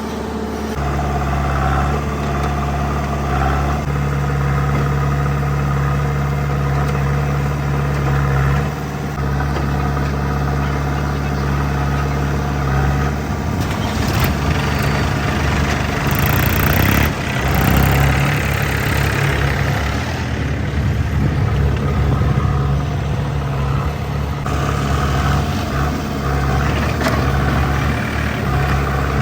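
Diesel engines of a backhoe loader and farm tractors running. A steady engine drone turns rougher and noisier about halfway through for several seconds, then settles back to a steady run.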